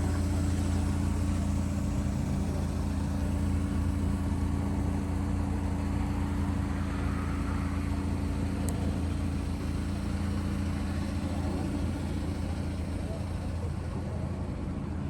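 Steady drone of a 1992 Subaru Sambar 4WD kei truck's supercharged 660 cc four-cylinder engine and road noise while driving, heard from inside the cab.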